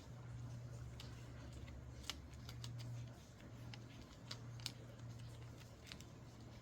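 Faint paper handling: a handful of crisp clicks and rustles as paper sheets are shuffled and worked, over a steady low hum.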